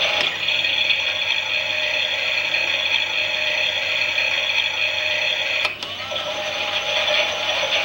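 Klein toy Miele washing machine's small battery motor and gears whirring steadily as the drum turns. There is a click just after the start and another about three-quarters of the way through, where the sound briefly drops and then comes back with a wavering pitch.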